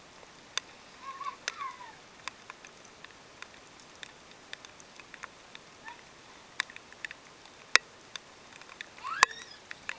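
Rain dripping and splattering as scattered, irregular sharp ticks, with two brief high squeals from small children that rise and fall in pitch, about a second in and near the end.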